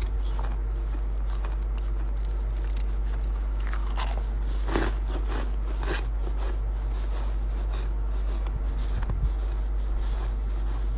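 Chest freezer frost being bitten and crunched in the mouth, in irregular crisp crunches that come thickest in the first half, with a few more near the end. A steady low hum runs underneath.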